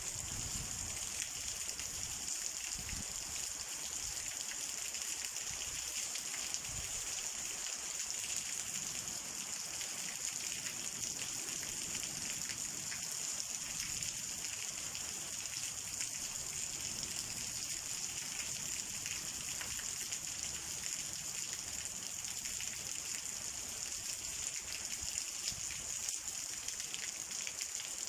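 Rain from a summer storm falling steadily, an even dense hiss that holds the same level throughout.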